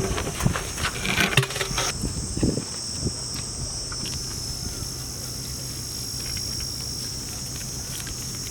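Knocks and clatter for about two seconds, then a steady high-pitched drone like insects chirring, over a low steady hum.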